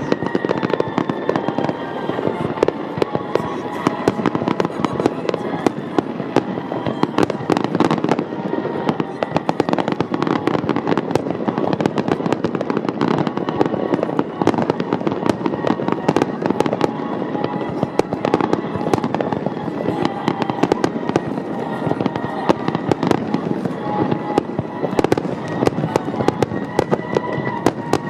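Grand-finale fireworks barrage: a dense, unbroken run of aerial shell bursts and crackles, many bursts a second, with music playing underneath.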